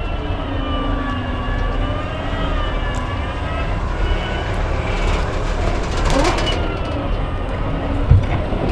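Electric trial truck driving: a whine that slowly rises and falls in pitch over a low rumble, with one sharp thump near the end.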